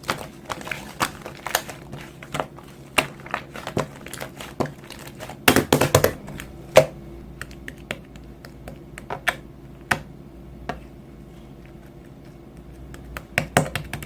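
Scattered light clicks and taps at an irregular pace, bunched into a quick flurry about halfway through, over a faint steady hum.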